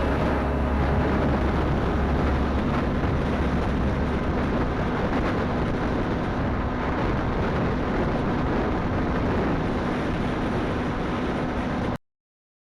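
Motorcycle riding sound: steady engine rumble mixed with wind and road noise, cutting off abruptly near the end.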